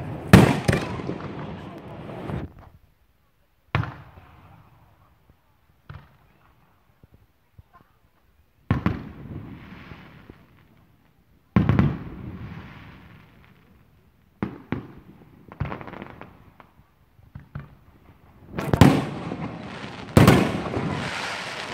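Aerial firework shells of a professional display bursting one after another, each sharp bang trailing off in a rumbling echo, with short quiet gaps between; a cluster of smaller cracks in the middle, and bursts coming faster near the end.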